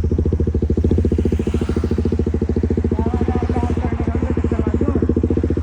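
KTM motorcycle engine with an aftermarket exhaust silencer running steadily, its exhaust note an even, rapid pulse with no revving.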